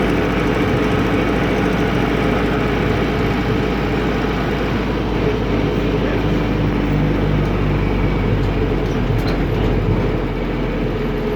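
Air-cooled Deutz F4L912 four-cylinder diesel of an Otokar M-2000 minibus running steadily, heard from inside the cab.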